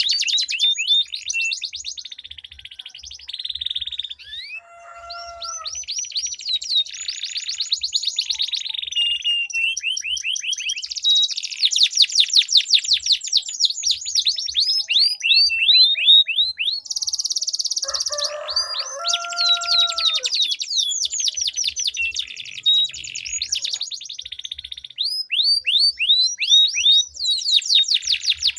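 Domestic canaries singing long rolling trills of rapid, repeated down-slurred notes, broken by short pauses. A lower, held note cuts in briefly about five seconds in and again for about two seconds past the middle.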